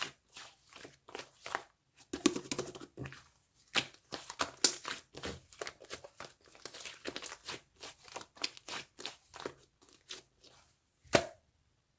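Slime being squeezed, poked and stretched by hand: irregular sticky clicks, pops and crackles, with a sharper snap near the end.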